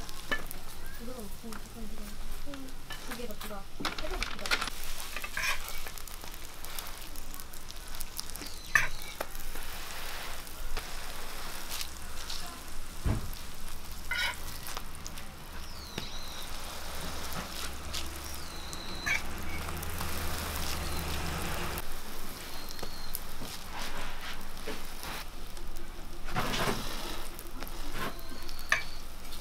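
Sweet-pumpkin hotteok frying in oil on a flat steel griddle: a steady sizzle, broken by a few sharp clicks of the metal hotteok presses and spatula against the griddle.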